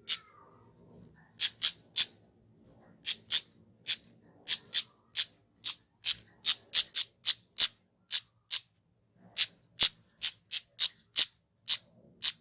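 Kemade flowerpecker calling: a long run of short, sharp, high-pitched 'tsit' notes, some two or three a second at an uneven pace, with a brief pause about a second in.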